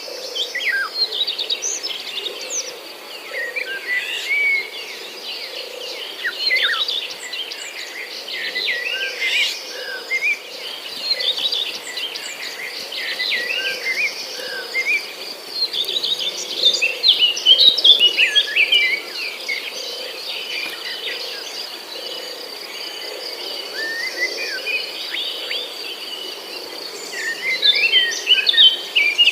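Many small birds chirping and calling over one another in quick, busy bursts, with a steady high hiss of calls behind them. Soft, regular footsteps run underneath.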